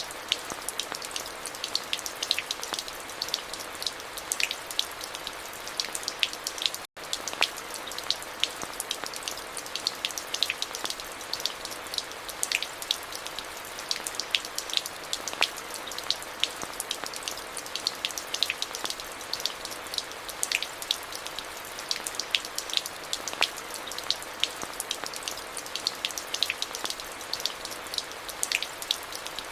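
Steady rain: a constant hiss of rainfall with many separate drops tapping close by in a dense, uneven patter. The sound cuts out for a split second about seven seconds in.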